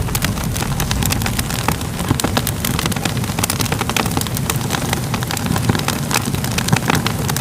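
Fire crackling: many quick, sharp pops and snaps over a steady low rumble.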